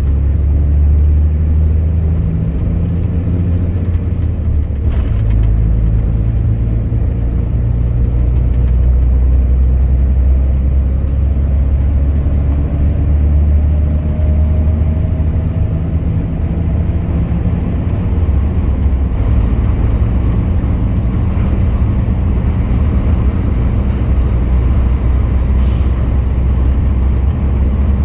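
Truck engine running steadily while driving, a continuous low hum with road noise.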